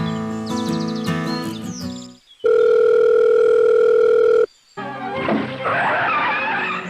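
Strummed acoustic guitar music stops about two seconds in, followed by a loud, steady electronic beep tone like a telephone dial tone, lasting about two seconds. A jumble of voices like chatter then starts.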